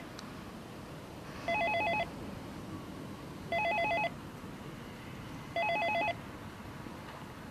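Apartment door-entry intercom calling a flat: a short warbling electronic ring repeats three times, about every two seconds, and goes unanswered.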